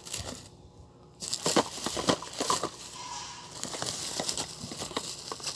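Packaging being handled and crinkled: a brief rustle, a short pause, then about four seconds of continuous crinkling and rustling with small sharp clicks.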